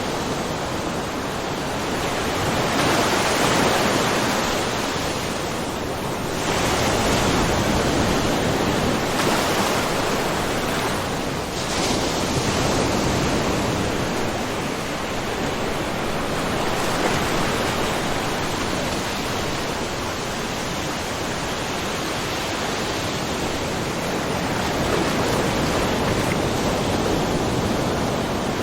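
Small ocean waves washing in and splashing lightly over a rocky mussel-covered shore, a continuous wash that swells every few seconds.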